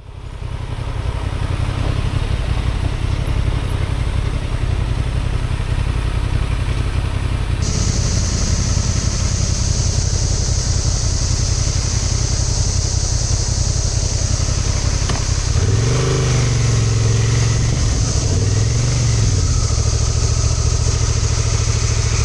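Motorcycle engine running on the move, its revs rising and falling twice in the second half. A steady high-pitched hiss joins about a third of the way in.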